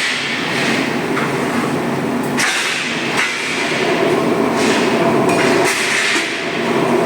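Steel mill machinery running: a loud, steady mechanical din with a faint steady hum, broken a few times by short, sharper noisy surges.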